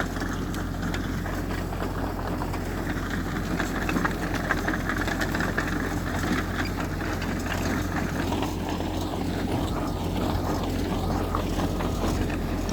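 Heavy diesel engine of earthmoving machinery running steadily, a continuous low rumble with a light rattle over it.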